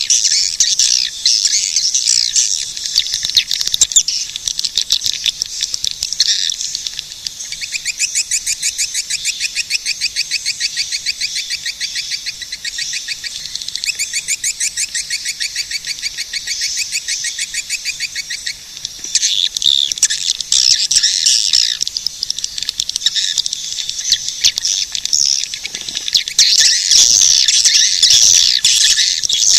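Swiftlets twittering and chirping, high-pitched and dense. In the middle the calls run as a string of rapid, evenly spaced chirps, and they grow busier again near the end.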